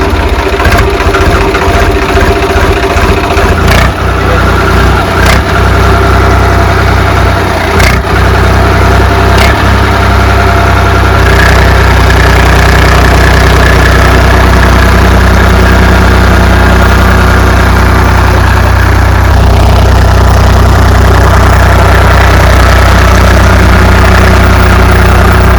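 Farm tractor engine running loud and steady close by, with a few sharp knocks over the first several seconds; from about eleven seconds in the engine note evens out and grows slightly louder.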